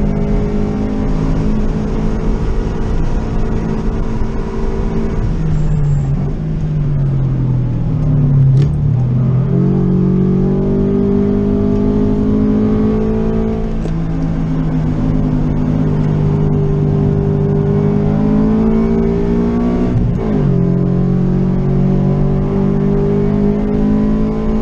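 Naturally aspirated 2.0-litre flat-four of a 2014 Scion FR-S with an aftermarket header and Tomei Ti80 titanium exhaust, heard from inside the cabin, running near 6,000 rpm under full throttle. The engine note drops as the car brakes and downshifts from fourth to second about five to nine seconds in, climbs again, and dips sharply and recovers at an upshift about twenty seconds in.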